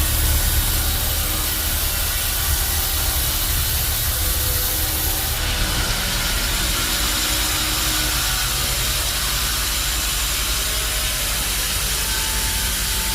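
Sawmill machinery running steadily: a low hum with a hiss over it, the hiss shifting slightly about five seconds in.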